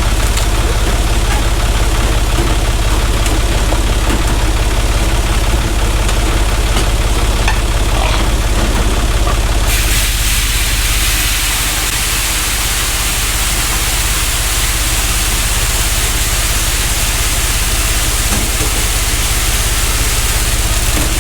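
Oliver farm tractor's engine idling steadily. About halfway through, a steady hiss starts up suddenly and carries on over it.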